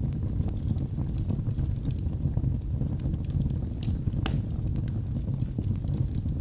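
Wood fire burning in a fireplace: a steady low rumble of flames with scattered sharp crackles and pops from the burning wood, one louder pop about four seconds in.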